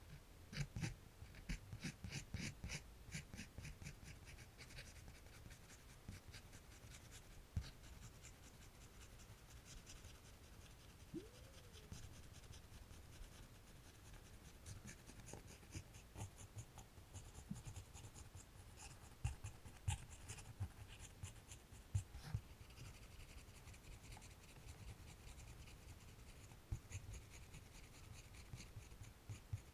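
Faint scratching of a drawing tool on paper while drawing: quick runs of short strokes with pauses between, and a few sharper taps.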